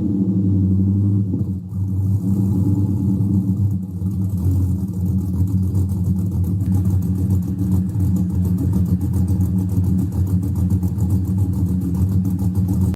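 2008 GMC Yukon XL's 5.3L LS V8, fitted with a Texas Speed Chopacabra camshaft, running steadily at a low speed with the pulsing, choppy beat of the aftermarket cam.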